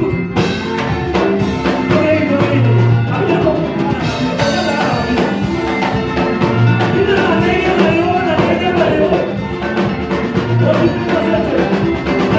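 A live church band playing a worship song, with drums, a repeating bass line and singing voices over it.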